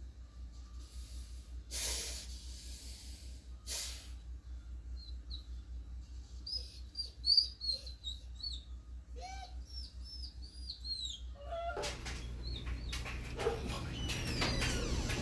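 Runs of short, high chirping and whining animal calls over a low steady hum, with busier scuffling noise building near the end.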